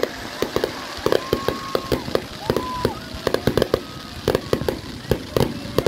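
Fireworks going off close by: an irregular string of sharp crackling bangs, several a second.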